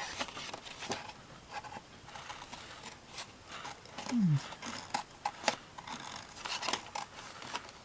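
Scissors snipping and magazine paper rustling as pictures are cut out, with irregular small clicks and crinkles. About four seconds in there is a short low hum that falls in pitch.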